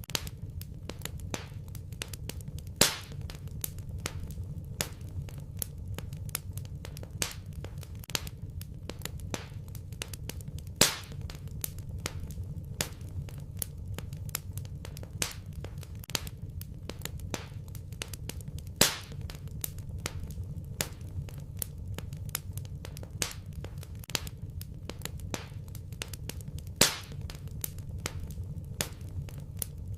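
Wood fire burning in a fireplace: constant small crackles over a steady low rumble of the flames, with a louder pop about every eight seconds.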